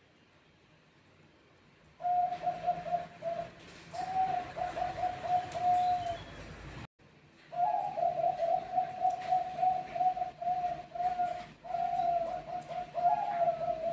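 Zebra doves (Bangkok perkutut) cooing in rapid runs of short, repeated notes, starting about two seconds in. The cooing breaks off abruptly near the middle and then resumes.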